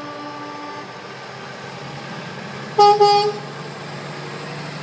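A vehicle horn honks twice in quick succession, briefly and loudly, about three seconds in, over a steady low engine rumble.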